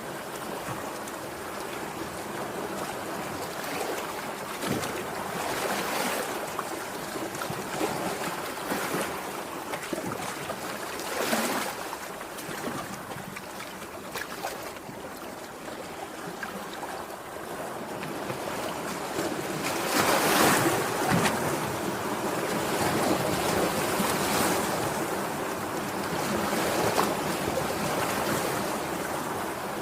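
Sea waves breaking and washing on the shore, in repeated surges that swell and fall back, the loudest a little past the middle, with some wind on the microphone.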